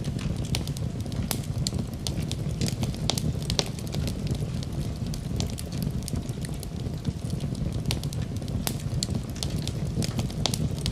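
Wood fire burning in a fireplace, a steady low rumble of flames with frequent sharp crackles and pops scattered irregularly throughout.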